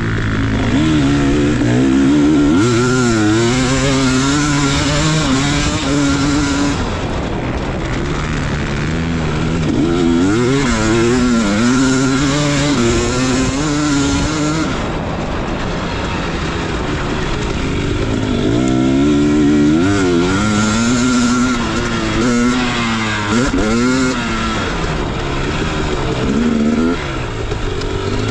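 Dirt bike engine being ridden hard, revving up and backing off over and over, its pitch climbing and falling with the throttle and gear changes.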